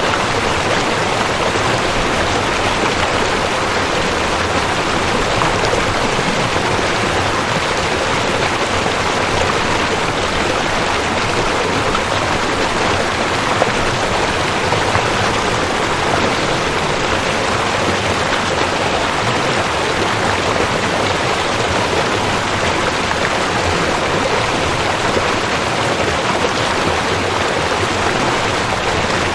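Rushing creek water, a steady loud rush that holds even throughout.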